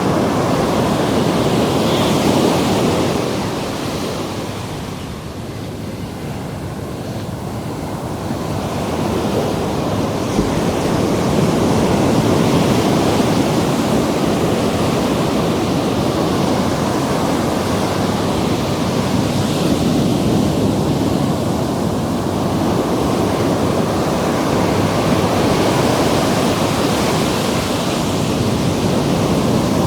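Ocean surf washing in at the shore's edge, a continuous rush of breaking waves that eases off briefly and then swells back up, with wind noise on the microphone.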